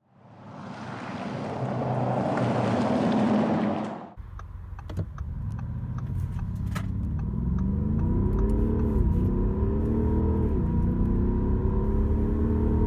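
Audi SQ7's 4.0 TDI twin-turbo V8 diesel accelerating hard. Its pitch climbs and drops twice, at about the middle and two-thirds of the way in, as the gearbox upshifts. Before the engine, a swelling whooshing noise fills the first four seconds and cuts off suddenly.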